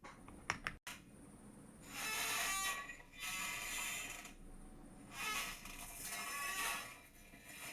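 A chair creaking under someone's weight: a few short clicks, then three long rasping creaks about a second or more each.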